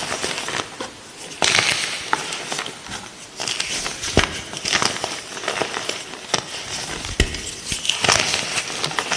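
Light green gym chalk being crushed, crisp crunching and crackling with many sharp snaps, in louder clusters about one and a half seconds in and again near the end.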